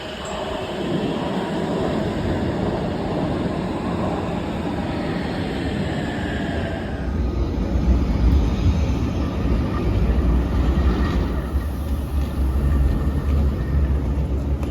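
Steady vehicle rumble, changing abruptly about seven seconds in to a heavier, deeper rumble.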